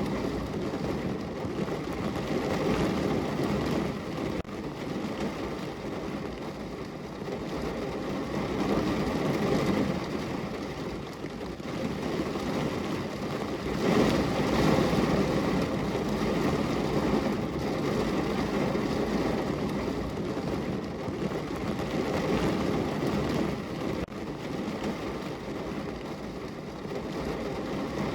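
Heavy rain falling on a car's roof and body, heard from inside the car: a dense, steady patter that grows and eases in waves every few seconds.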